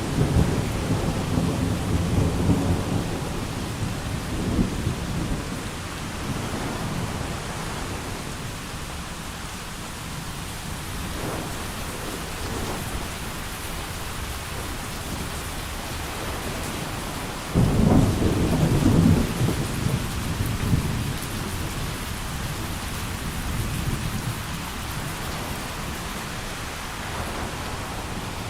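Thunderstorm: rain falling steadily throughout, with thunder rumbling and fading over the first few seconds, then a sudden loud thunderclap about two-thirds of the way in that rolls on for several seconds.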